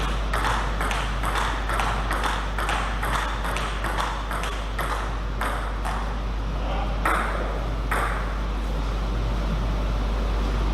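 Table tennis ball clicking back and forth off rackets and table in a rally, about two to three hits a second, with two louder hits near seven and eight seconds before the rally stops. A steady low electrical hum runs underneath.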